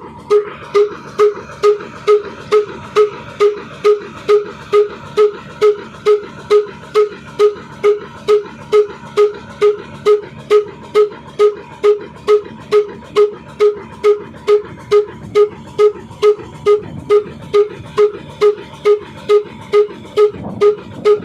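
Old Ruston stationary engine running steadily at slow speed, with an even, sharp beat about two and a half times a second.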